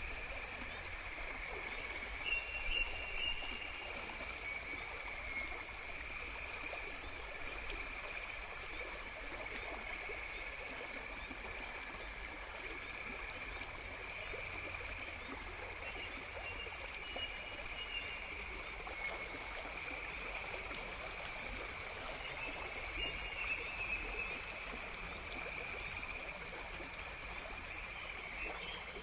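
Outdoor nature ambience: the steady rush of running water, with a constant high trilling of insects over it. A very high buzz is heard for the first third and again from about two-thirds through, and a quick run of high ticks, several a second, comes a little past the middle.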